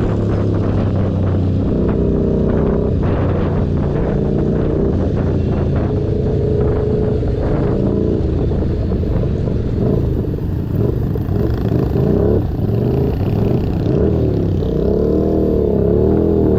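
Keeway SCR 250's V-twin engine running through a Racefit free-flow exhaust, its pitch shifting as the throttle changes, with several quick revs up and down near the end.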